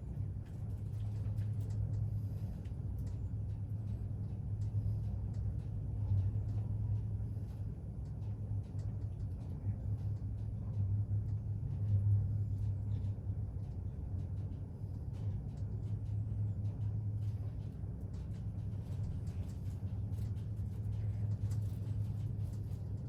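Hyundai WBHS high-speed elevator car (180 m/min) travelling down at speed, heard from inside the cab: a steady low hum and rumble.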